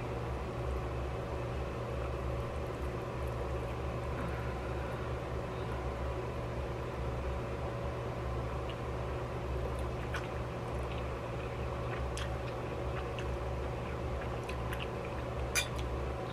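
Steady low background hum with a few faint, brief clicks of a metal fork against the noodle bowl scattered through it, the sharpest near the end.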